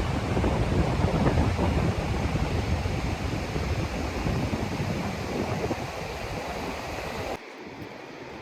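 Sea surf washing on a beach with wind buffeting the microphone, a loud, rough rushing. It drops abruptly to a much quieter hiss near the end.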